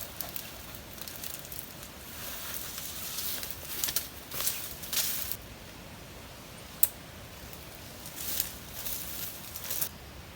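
Intermittent rustling and scraping handling noises, with one sharp click about two-thirds of the way through.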